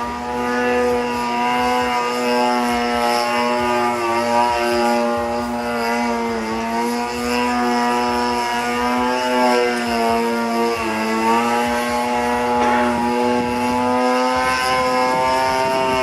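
A 26cc two-stroke gasoline engine on a 62-inch Katana RC aerobatic airplane runs steadily, with a buzzing propeller. Its pitch dips briefly twice, a little past six and eleven seconds in.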